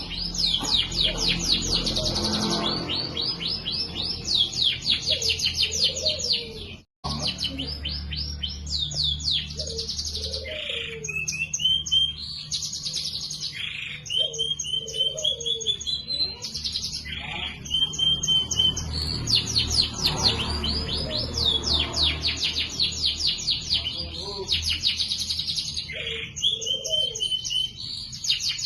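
Domestic canary singing in loud, rapid trills alternating with held whistled notes. The song cuts out briefly about seven seconds in.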